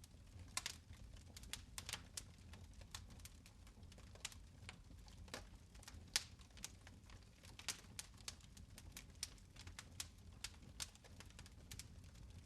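Fire in a fireplace crackling faintly: irregular snaps and pops, several a second, over a low steady rumble.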